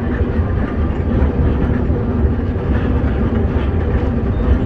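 Passenger train running along the track, heard from an open coach window: a steady, heavy low rumble of the carriages.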